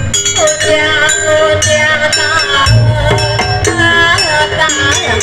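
Live East Javanese jaranan music: a wavering melody line over a percussion ensemble, with jingling and a deep low stroke about halfway through.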